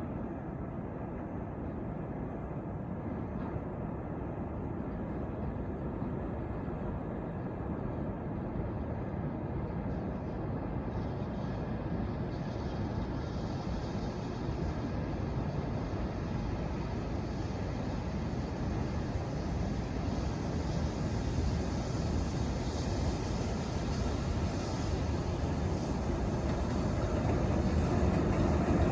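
Approaching heavy freight train: a steady low rumble that grows slowly louder, gaining a hiss about a third of the way in.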